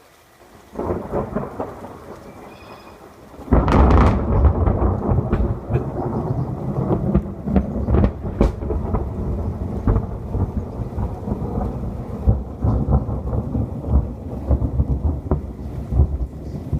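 Thunder after a lightning strike: a low rumble starts about a second in, then a loud crack about three and a half seconds in rolls on as a long, heavy rumble with crackles, over steady rain.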